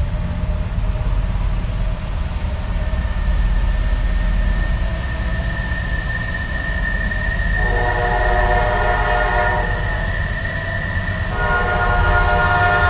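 Train horn sounding as a train approaches: two long blasts of several notes at once, the second starting about two-thirds through, over a steady low rumble.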